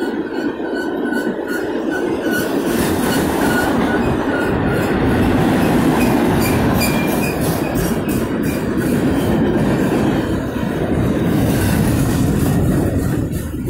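Freight train of autorack cars rolling past: a steady rumble of steel wheels on rail, with thin high wheel squeals in the first half and repeated clicks of wheels over rail joints.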